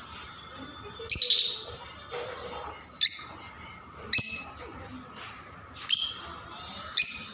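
Pet parrots, lovebirds among them, giving short shrill chirps: five sharp calls about a second or two apart.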